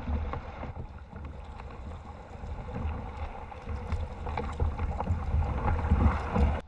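Kayak paddling through water: scattered paddle splashes and knocks against the hull, over a low rumble of wind on the microphone.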